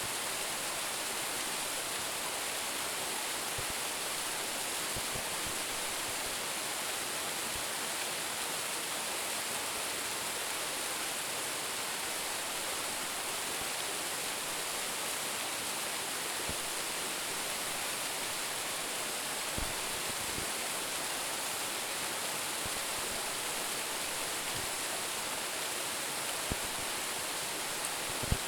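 Steady rush of a small waterfall of about 10 m, Roumon Falls, its water splitting and falling onto rock. A few brief low thumps, the clearest near the end.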